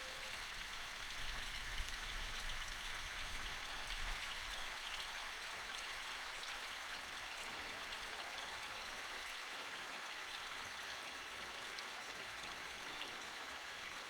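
Steady rain, an even hiss with scattered drops pattering.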